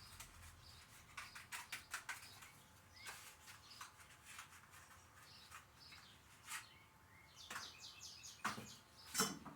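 Faint bird chirps, with scattered light clicks and knocks throughout and a couple of louder knocks near the end.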